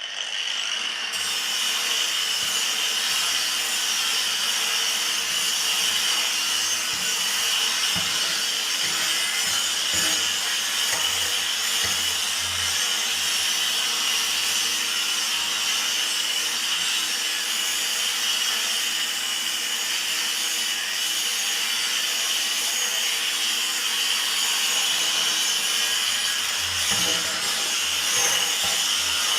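A power tool running continuously on steel: a steady high-pitched whine over a hiss, starting abruptly.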